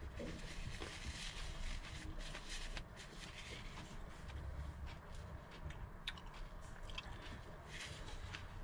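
A person chewing and biting food close to the microphone, with irregular small clicks from the mouth.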